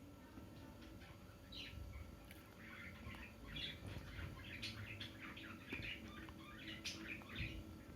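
A parrot chirping in a rapid series of short, high calls, sparse at first and busier from about two and a half seconds in.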